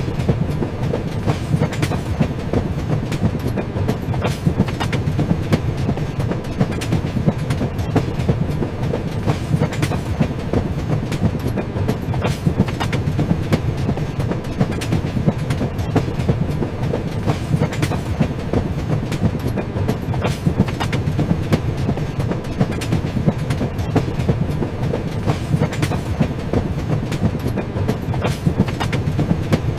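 Train running along the track: a steady rumble with frequent clicks and clacks of the wheels over rail joints.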